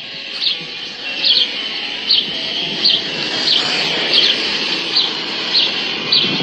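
A small bird chirping over and over, one short high chirp about every two-thirds of a second, over a steady background hum and faint ice cream truck music.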